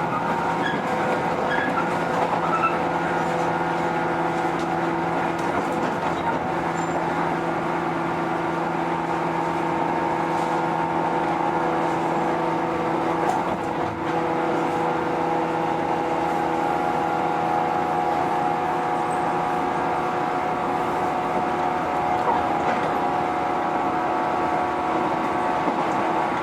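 Running sound of a JR 115 series electric train heard inside the car at steady speed: a constant drone and whine from the motors and gears with rolling wheel noise, and a brief dip about halfway through.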